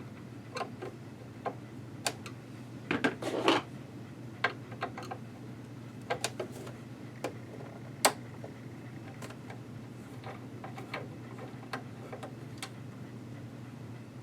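Scattered small metallic clicks and clinks of a screwdriver and loose screws being handled while the casing screws of a sewing machine are taken out, with a cluster of clinks a few seconds in and one sharp click near the middle. A steady low hum runs underneath.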